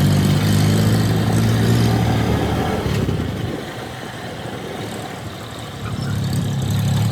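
Engine of a homemade 26 hp tractor running steadily; the sound fades for a few seconds in the middle and rises again near the end.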